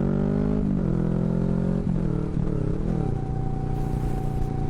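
Kawasaki Vulcan S parallel-twin engine running through aftermarket Hoonk twin exhaust pipes while riding. The engine note shifts up and down, then settles to a steady note about three seconds in.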